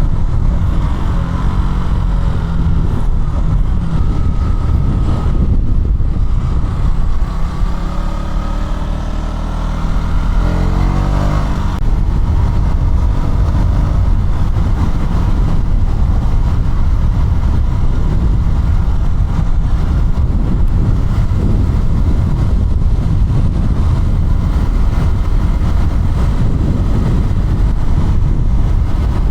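KTM Duke 200's single-cylinder engine running on the move. About ten seconds in its pitch climbs steeply as it revs up, and for the rest it runs on under a loud, even rush of noise.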